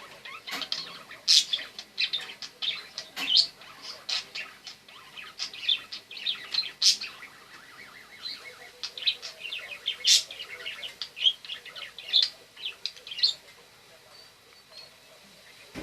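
Budgerigar in full song, chattering and warbling in a fast, busy run of chirps, clicks and squeaks that thins out about thirteen seconds in.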